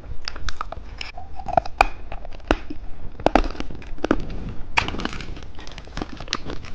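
Irregular crackling and crinkling clicks of sweets and their plastic packaging being handled.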